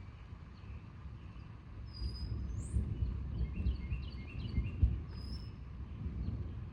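Birds chirping and whistling in a few short calls, over a low, uneven rumble that swells for a few seconds in the middle.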